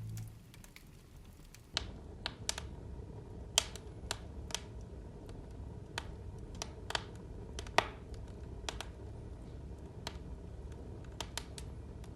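Crackling fire sound: irregular sharp pops and snaps over a low steady rumble, starting about two seconds in.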